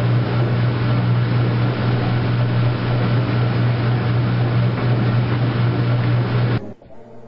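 Washing machine running with a loud, steady low hum over a rushing noise, which cuts off abruptly about six and a half seconds in.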